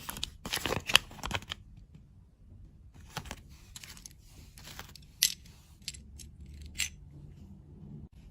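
Crackling and tearing of candy packaging for about a second and a half, then scattered sharp clicks and taps, with two louder ones near the middle and near the end.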